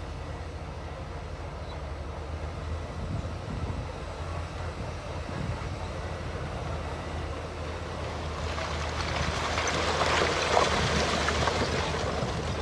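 Diesel engine of heavy earthmoving equipment running steadily at a low pitch. About two thirds of the way in, a loud rush of crackling and scraping rock and stone rises over it for a few seconds, then eases.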